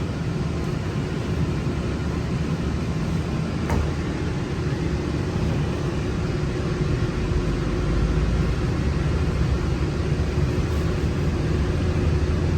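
Walt Disney World monorail running, heard from inside the cabin: a steady rumble with a faint hum, slowly getting a little louder, and a single click about four seconds in.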